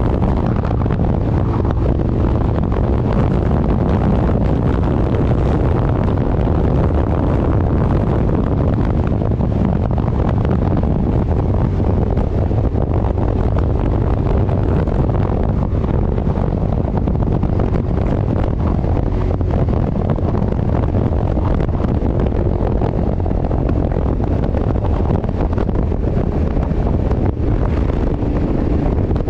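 Heavy wind buffeting the microphone over the steady drone of a 1000 cc motorcycle cruising at speed.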